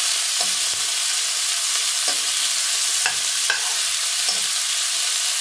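Sour pork (naem) and garlic frying in a nonstick wok with a steady sizzle, while a spatula stirs them, scraping and tapping the pan a few times.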